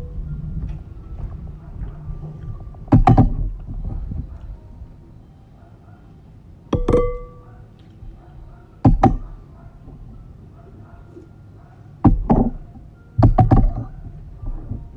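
A spoon knocking against a bowl about six times, sharp clinks with one ringing briefly, between quieter eating sounds.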